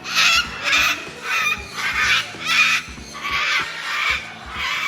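Parrot screeching, a run of about eight harsh calls at roughly two a second, with background music underneath. The bird is agitated.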